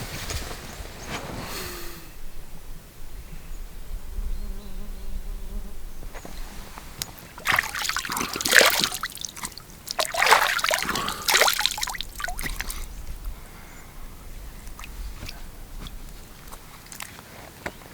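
Water trickling and splashing, loudest in two short spells about eight and eleven seconds in, over a quiet background.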